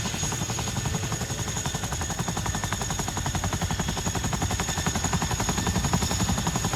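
Boeing CH-47 Chinook's tandem rotors chopping, a steady rapid run of thuds, with a high steady whine above.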